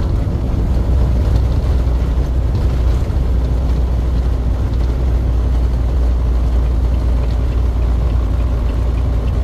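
Steady low rumble of a truck on the move: engine and road noise with no change in pace.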